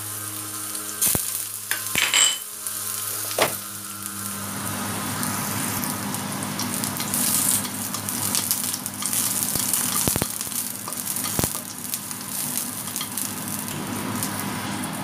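Ginger slices sizzling in hot oil in a wok, the frying growing fuller after about four seconds. A few sharp clicks of a utensil against the pan come through it as the ginger is stirred.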